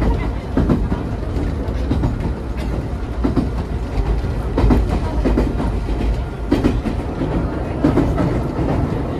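Interior running sound of a Nagano Electric Railway 3500 series electric train (ex-Teito Rapid Transit 3000 series): a steady low rumble with repeated irregular knocks of the wheels over rail joints, heard inside the carriage.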